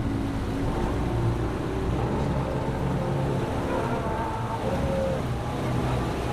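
Sportfishing boat's engines running steadily, with the sea washing around the hull.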